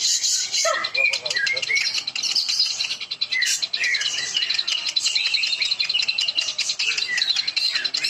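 Many caged cucak ijo (greater green leafbirds) singing at once during a songbird contest round: a dense, unbroken mix of overlapping chirps, whistles and rapid trills.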